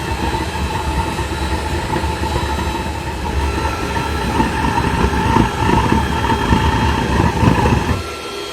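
Homemade waste-oil burner running with its air blower: a loud, steady rumbling roar with a whine, which drops off abruptly near the end, leaving a quieter blower hum.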